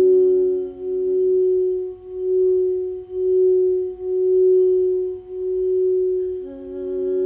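Singing bowl ringing with a sustained tone that swells and fades in a slow, regular pulse about once a second. A lower tone dies away early on, and fuller overtones come back in near the end.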